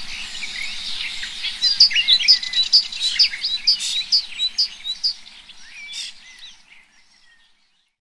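Forest birds singing: a chorus of many quick chirps and whistles from several birds, thinning out and fading to silence near the end.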